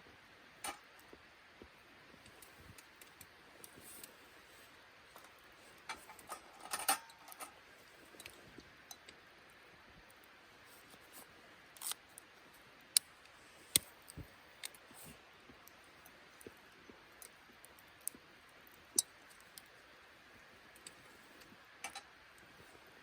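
Scattered small clicks and taps of objects being handled, with a brief cluster of rustling and clinking about seven seconds in, over a faint steady background.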